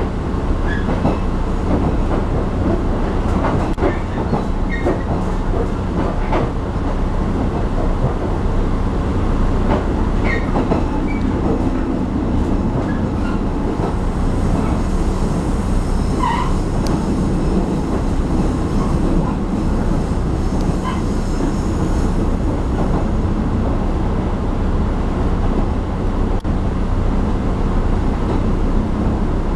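Taiwan Railway passenger train heard from inside the carriage while under way: a steady rumble and rattle with a low hum. Scattered clicks of the wheels over the rails and a few brief squeaks break through it, the clearest squeak about sixteen seconds in.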